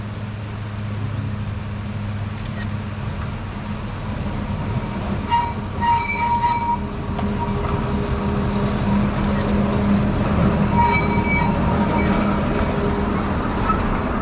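Akasawa forest railway train, a small diesel locomotive hauling passenger cars, rolling slowly past on narrow-gauge track, its engine hum growing louder as it nears. Brief high-pitched tones sound twice, about five to seven seconds in and again about eleven seconds in, with a few light clicks from the rails.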